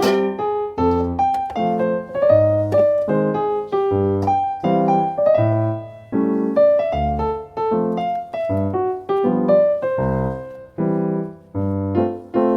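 Background music: an upbeat piano or electric-piano tune of short, evenly paced notes over a bass line.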